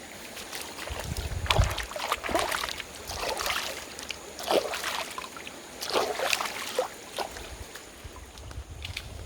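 Water splashing and sloshing in a run of irregular splashes, strongest between about one and seven seconds in, with some wind buffeting the microphone.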